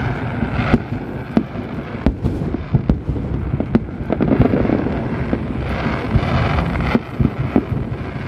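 Aerial fireworks display: many shells bursting in rapid, irregular succession, sharp bangs over a continuous low rumble that swells about halfway through.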